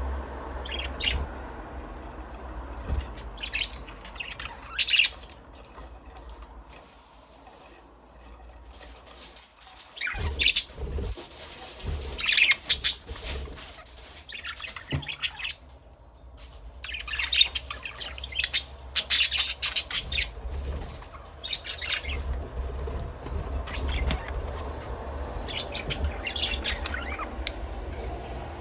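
Budgerigars chirping and squawking in scattered bursts of short, high calls, busiest in two stretches, over a low rumble.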